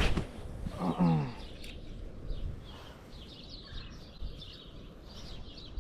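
Small birds chirping on and off over a steady low outdoor rumble. There is a brief knock at the very start and a short pitched sound that falls about a second in.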